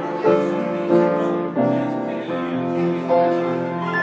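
Piano music playing, chords struck about every second or less.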